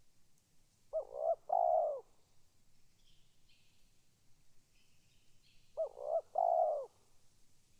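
Spotted dove cooing: two calls about five seconds apart, each two short notes followed by a longer note.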